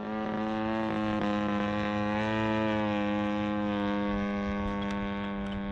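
EME60 60cc gasoline engine of a giant-scale RC warplane, turning a three-blade prop in flight at about half throttle. It is a steady drone whose pitch rises a little and then falls off again as the plane flies around.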